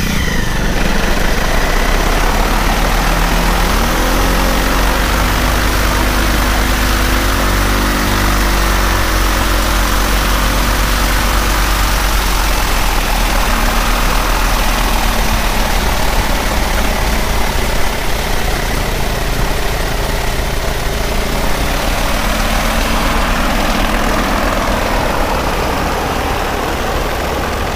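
A motorcycle petrol engine driving the propeller of a homemade light aircraft, running steadily on a ground run. Its note rises twice in the first ten seconds, about four and eight seconds in, then settles.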